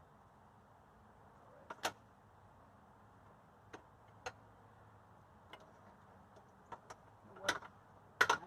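Scattered sharp clicks and light knocks of motorcycle parts and tools being handled, with a louder cluster of knocks near the end.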